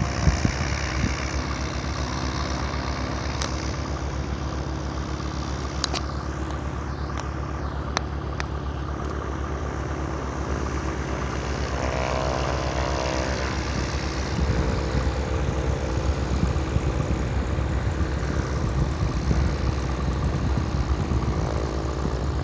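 An engine idling steadily with an even low pulse, with a few sharp clicks partway through.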